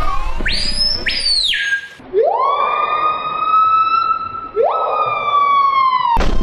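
A loud siren-like wail: a short high upward whoop sounded twice, then one long call that rises and holds, swoops up again partway through, and fades out near the end.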